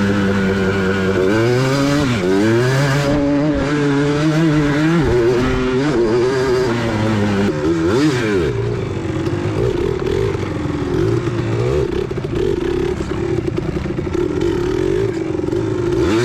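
Single-cylinder off-road engine running under way, its pitch dropping and climbing again with the throttle about 1.5 s and 8 s in, then holding fairly steady at a lower pitch through the second half.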